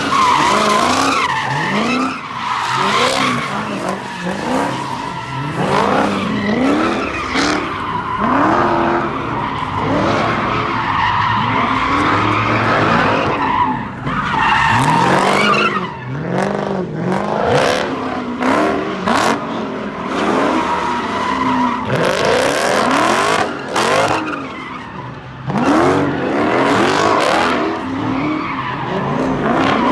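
Cars doing burnouts and donuts: engines revving up and down over and over, with tires squealing on the pavement throughout.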